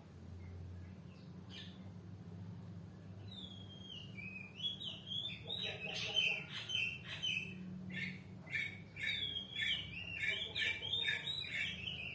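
A bird singing a rapid, warbling song of chirps and trills that starts about three seconds in and gets louder partway through, over a low steady hum.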